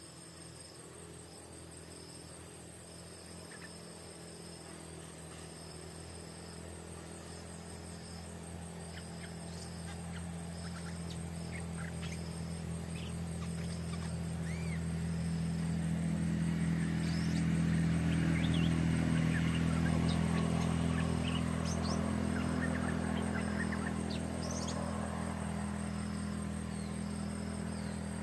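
Rural afternoon ambience: insects trilling in a steady pulsing rhythm, with scattered short bird chirps. A low engine hum, like a vehicle passing at a distance, swells through the middle and then eases off.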